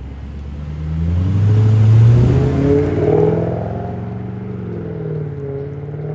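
Toyota Celsior's 3UZ-FE V8 exhaust, heard through a one-off straight-through exhaust with a loop-shaped rear muffler. The exhaust note rises to a peak about two seconds in, then eases off and holds steadier.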